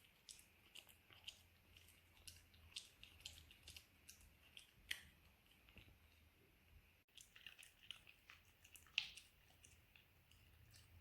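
Shiba Inu chewing and smacking her food: faint, irregular wet clicks and crunches, several a second.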